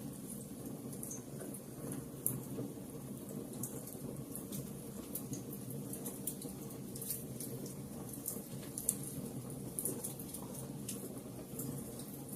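Wood fire burning in a fireplace: a steady low rush of flame with frequent sharp crackles and pops.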